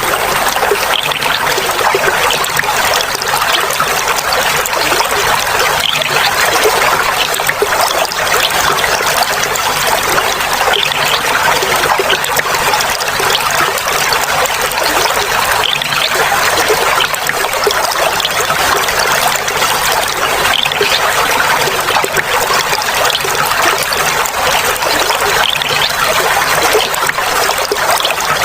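Clear water trickling and babbling steadily, like a small stream or water running over stones.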